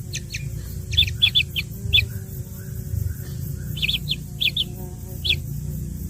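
Small birds chirping: short, sharp high calls coming in quick runs of two to four, over a low background rumble.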